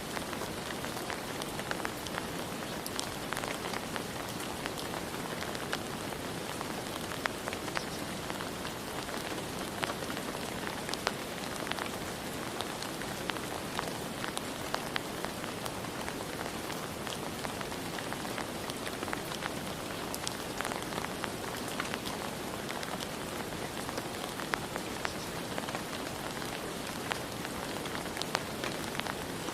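Steady rain falling, with many individual drops ticking sharply on a nearby surface.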